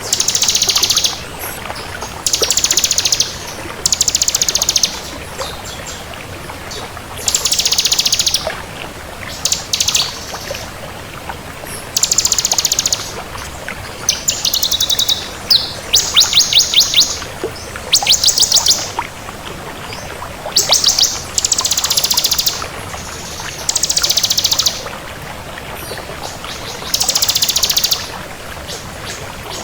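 Ciblek kristal, a prinia, singing vigorously: rapid, high, buzzy trilled phrases about a second long, repeated every second or two, over a steady hiss.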